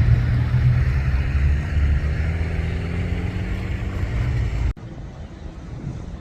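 A loud, deep rumble that cuts off abruptly about three-quarters of the way through, leaving a much quieter outdoor background.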